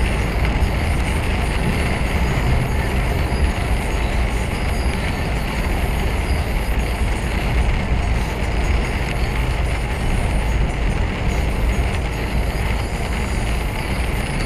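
Steady drone of a lorry being driven, heard from inside the cab: low engine rumble under a constant rush of road noise, with no sudden changes.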